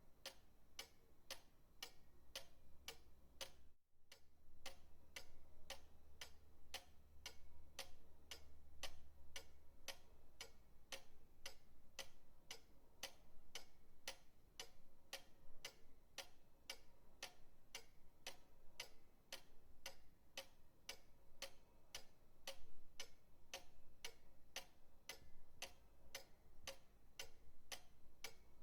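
Pendulum clock ticking steadily and faintly, about two ticks a second, with a brief dropout about four seconds in.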